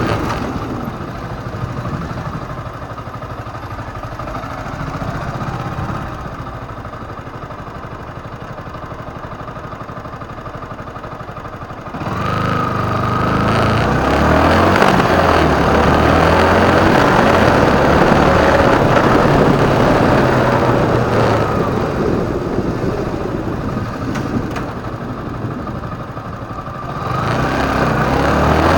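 Motorcycle engine running while riding in traffic: quieter for the first twelve seconds, then suddenly louder as it pulls away and holds, with its pitch stepping as it goes, and louder again near the end.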